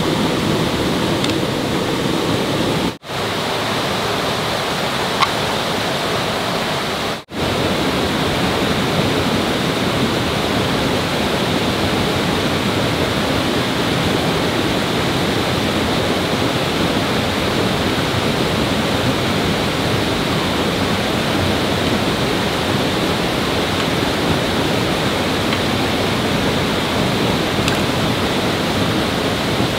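Steady rushing of fast-flowing water, like a stream or small waterfall, broken by two brief dropouts at edit cuts around 3 and 7 seconds in.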